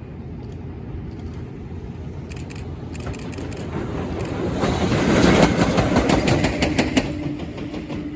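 Freight train running past on the rails: a low rumble that builds to its loudest about five seconds in and then eases off, with a quick run of sharp clicks from the wheels passing over rail joints.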